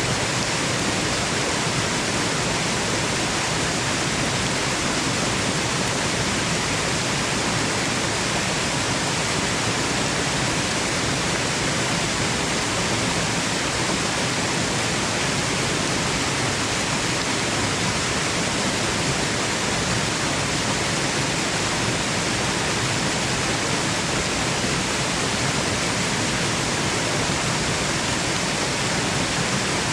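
Waterfall: water falling and rushing in a steady, even roar with no change over time, played as white noise for sleep.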